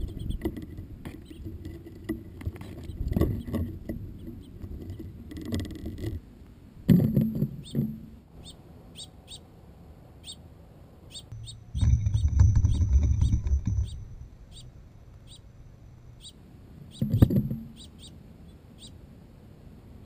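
Small birds at a feeder close to the microphone: several short bursts of fluttering or rustling, the longest about two seconds long around the middle, with scattered light clicks and a few faint chirps.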